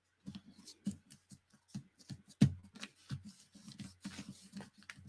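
Paper and card being handled by hand on a work table: irregular light rustling and small taps, with one louder tap about two and a half seconds in.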